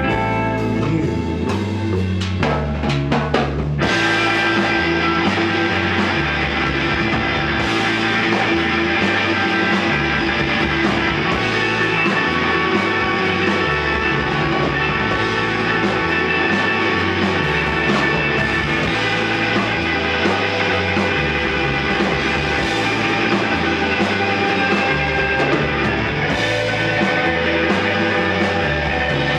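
Live rock band playing an instrumental passage with electric guitar, bass and drum kit; the sound fills out with the full band about four seconds in.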